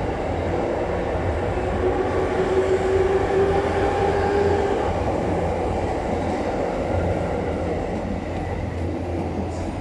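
JR East E257 series 5000-subseries electric multiple unit pulling out and running past at close range, a steady rush of wheel and running noise with a humming tone in the middle. The noise is loudest about three seconds in and eases off as the last car clears.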